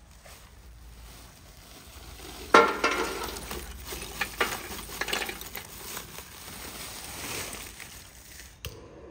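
Cooking sounds: food sizzling and being stirred in a pan, starting suddenly a couple of seconds in and cutting off abruptly near the end.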